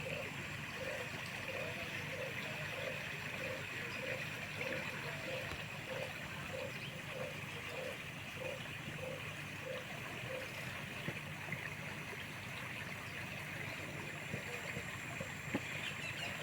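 River water running steadily, with a low note repeating about every two-thirds of a second that stops about ten seconds in.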